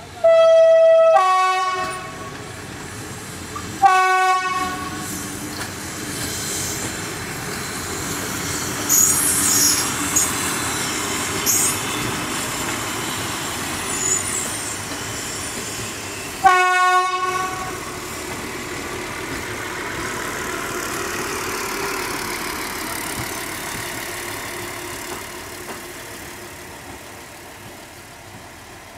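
Diesel railbus (SA-138) sounding its horn: a loud two-note blast, high then low, lasting about a second and a half at the start, then shorter blasts at about four and seventeen seconds. In between, the railbus runs past close by, its wheels squealing in a high pitch for a few seconds, and the running noise fades away near the end.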